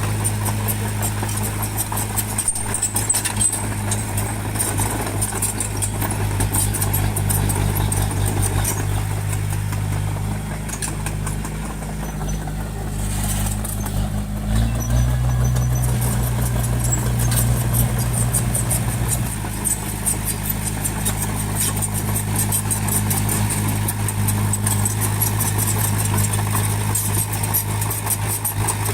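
Heavy diesel engine of a bulldozer running steadily, its pitch stepping up for a few seconds about halfway through and then settling back. Rapid fine clatter runs over it.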